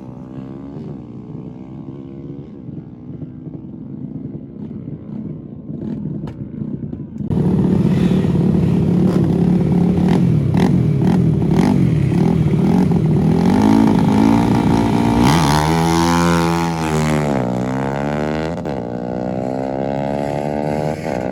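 Drag-racing motorcycle engines: an engine runs quietly for the first several seconds, then about seven seconds in a much louder engine comes in, its pitch rising and falling as it revs.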